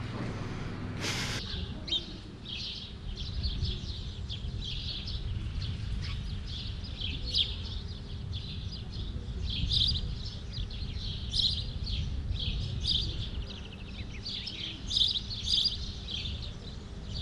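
Small birds chirping over and over, in short high chirps, over a low steady rumble. A brief hiss comes about a second in.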